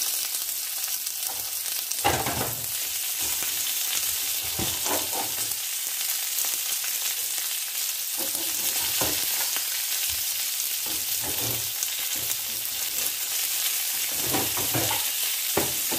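Onion and green pepper rings sizzling steadily in hot oil in a frying pan. A few short knocks come through the sizzle, the loudest about two seconds in, from pepper rings being laid into the pan and a knife slicing a tomato on a cutting board.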